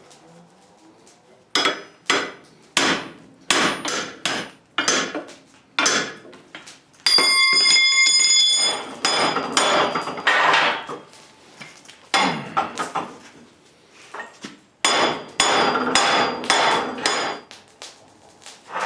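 Hand hammer forging hot 3/4-inch steel sucker rod on an anvil: a run of separate blows starting about a second and a half in, one strike about seven seconds in that rings on clearly, then spells of quicker, denser hammering.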